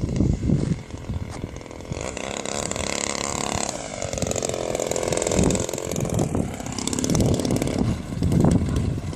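Single-cylinder two-stroke EME 35cc gas engine of an RC model aerobatic plane running in flight, its note sweeping up and down in pitch between about two and six seconds in.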